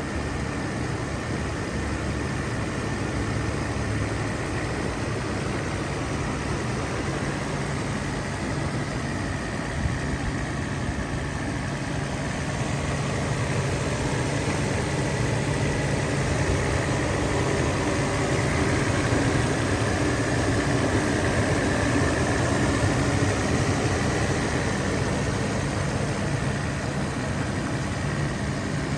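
Mercedes-Benz SL600 R129's 6.0-litre M120 V12 engine idling steadily, with a slight swell in loudness a little past the middle.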